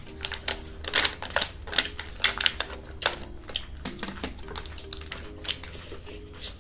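Close-up eating sounds: quick, irregular wet mouth smacks and clicks of chewing as rice is eaten by hand, over faint background music.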